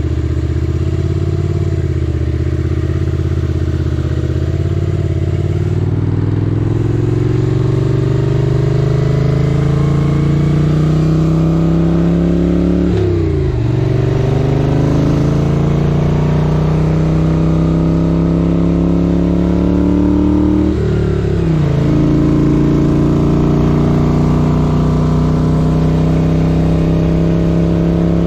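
1978 Moto Guzzi 850 Le Mans's air-cooled V-twin accelerating through the gears, its pitch rising steadily. The revs drop sharply at an upshift about halfway through and again about three quarters through, then climb again.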